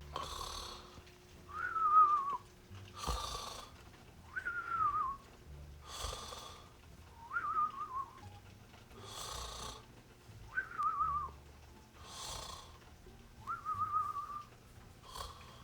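Cartoon-style snoring from a sleeping person, repeated about every three seconds: a snore on the in-breath, then a short whistle on the out-breath that falls in pitch. The cycle comes five times.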